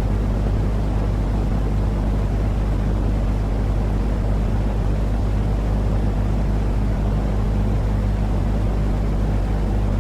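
Steady sleep-aid noise for a baby: a loud, unchanging low rushing sound with a faint steady hum under it, like a machine running.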